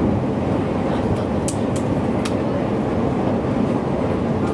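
Inside a JR East Joban Line electric train running along the line: a steady rumble of wheels and running gear, with three short sharp ticks about a second and a half to two seconds in.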